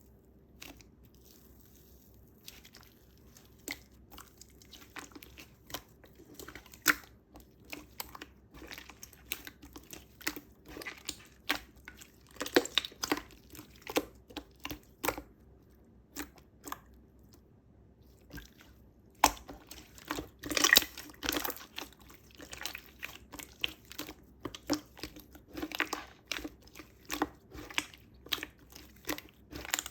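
Slime being squished and poked by hand, giving a stream of irregular wet pops and crackles. It pauses for a few seconds just past the middle, then resumes louder.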